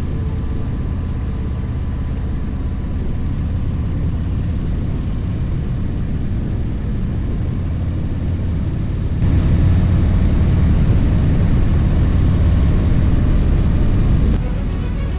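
Harley-Davidson Street Glide V-twin motorcycle running under way, a steady low rumble. It grows louder about nine seconds in and drops back near the end.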